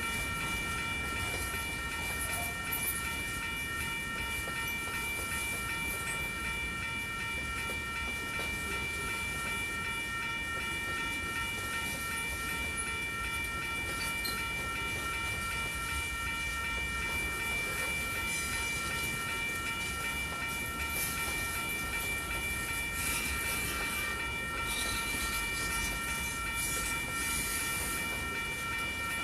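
Freight cars of a manifest train rolling past, a steady rumble with several high-pitched tones held throughout.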